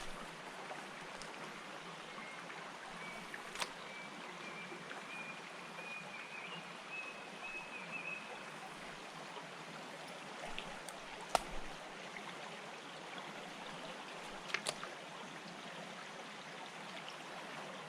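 River water running steadily, with a few short sharp clicks scattered through and a faint thin whistle from about three to nine seconds in.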